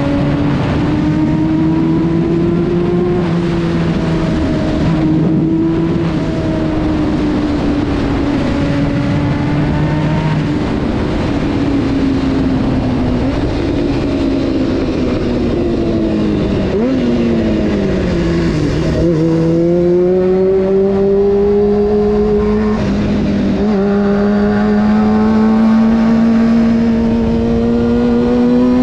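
Honda CBR600 F4's inline-four engine running under way: the revs hold, fall about halfway through, then climb slowly through the last third with a brief break in between.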